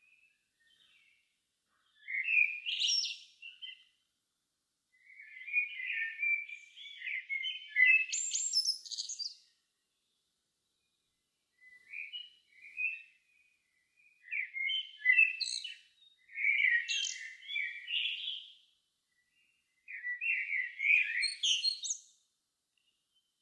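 A songbird singing in separate phrases of one to four seconds with short pauses between them, warbling notes that in some phrases run up into higher twittering.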